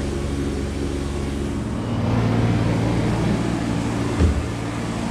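An engine running steadily, its drone shifting to a lower, rougher tone about two seconds in, with a single brief low thump near the end.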